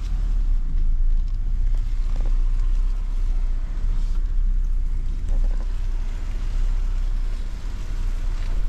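Jeep Gladiator creeping through a tight gap between trees on a trail: a steady low engine and drivetrain rumble.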